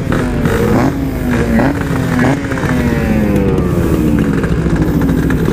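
Yamaha RX-King's single-cylinder two-stroke engine, breathing through a stock-style packed muffler, pulling away and shifting up with short breaks at each shift. Its pitch then falls steadily through the second half.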